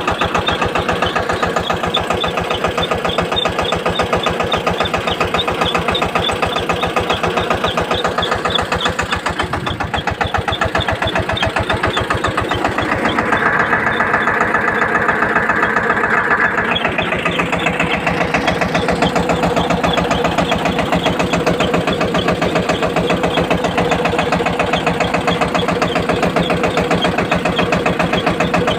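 Massey Ferguson 5118 tractor engine running steadily with even firing pulses while it drives a submersible pump. A high steady whine joins in for about three seconds midway.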